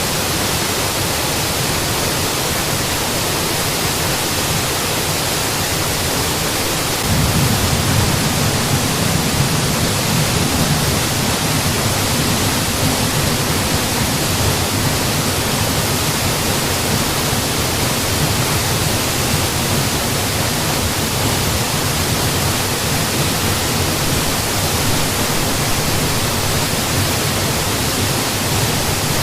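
Mountain waterfall rushing as a steady, even hiss of falling water. About seven seconds in, the low rumble becomes fuller and a little louder, then stays steady.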